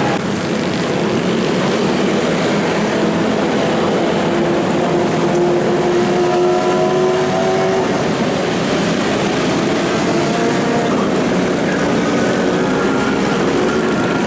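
Motorcycle engines running steadily in a continuous mechanical din, with one engine note rising slowly in pitch near the middle.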